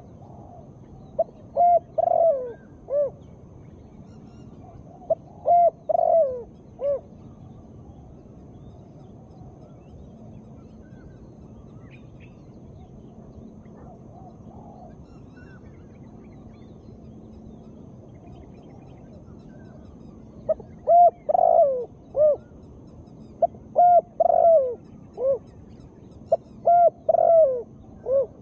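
Spotted dove (tekukur) cooing, the call offered as a female's: five short phrases of a few notes each, two in the first seven seconds, then a long pause, then three in quick succession near the end.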